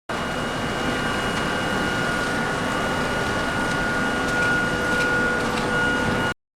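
Steady mechanical hum and hiss with a few faint, steady whining tones, cutting off suddenly near the end.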